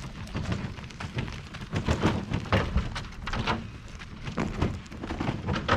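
Homemade wheeled chicken tractor knocking and rattling as it is hauled by hand across the pasture, a run of irregular taps and thumps over a low rumble.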